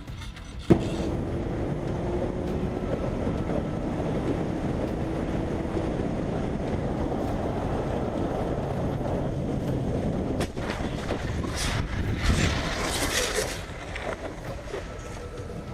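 A motorcycle riding along, heard as steady engine and road noise mixed with wind on the camera microphone. It cuts in sharply with a click about a second in, and a louder, hissier rush of noise comes around two-thirds of the way through.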